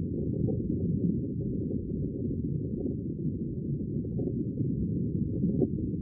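Steady, deep, muffled rumble of sea water, with no hiss or crash of breaking waves.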